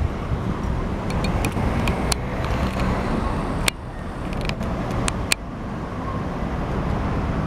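Road traffic noise: a steady low rumble of passing vehicles, with a few sharp clicks.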